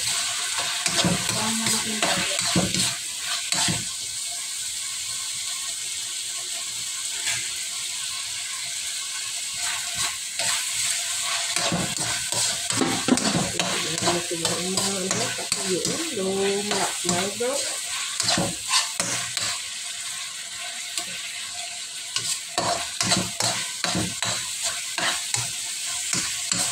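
Shredded adobo chicken sizzling in oil in a wok, with a metal spatula repeatedly scraping and knocking against the pan as it is stirred. The sauce has cooked off and the meat is being fried down until crunchy.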